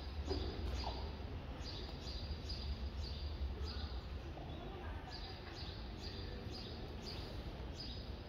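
Small birds chirping: runs of short, high chirps, about two a second, over a low steady rumble.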